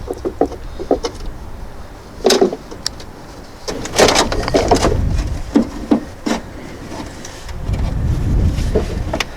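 Scattered clicks, clunks and knocks of a car battery being handled and fitted into the engine bay, with a low rumble near the end.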